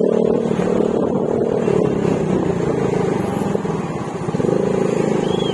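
Yamaha Mio Gravis scooter's 125 cc single-cylinder engine running through an aftermarket Akrapovic exhaust with silencer, heard while riding. It holds steady, eases off a little past the middle, then picks up again.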